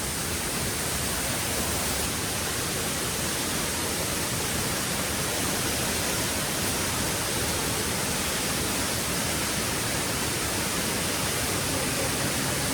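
A waterfall pouring: a steady, unbroken rush of falling water.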